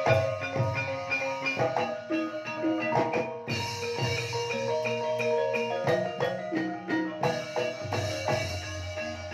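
Gamelan ensemble playing a Banyumasan gending in ebeg style: struck metallophones ringing out interlocking notes over a steady beat, with low drum strokes.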